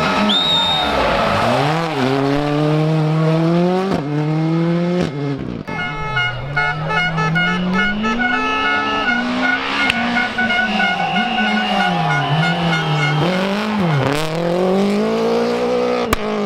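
Rally car engine revving hard, its pitch rising and falling repeatedly with throttle and gear changes. Tyres squeal for several seconds in the middle.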